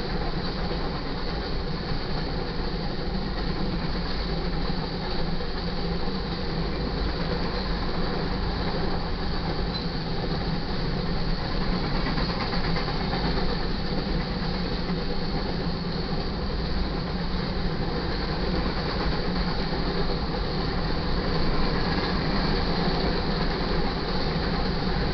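Freight train of covered hopper cars rolling past: a steady, continuous sound of steel wheels on the rails.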